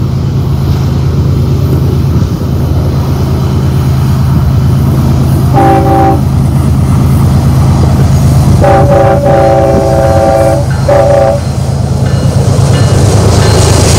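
Union Pacific diesel freight locomotives running steadily with a deep engine hum while the horn sounds: a short blast about halfway through, then a long blast followed by a short one. Wheel and rail noise rises near the end.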